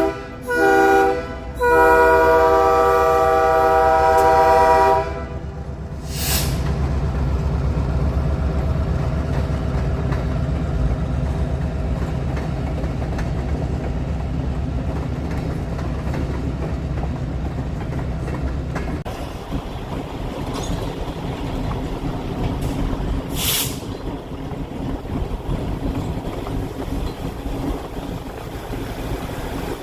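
Diesel locomotive horn sounding a short blast and then a long one, ending about five seconds in, followed by the low rumble of the train rolling by. Two brief hisses come at about six seconds and about twenty-three seconds.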